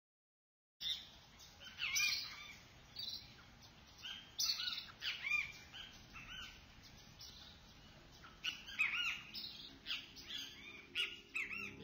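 Songbirds chirping, many short high chirps in irregular clusters, starting about a second in.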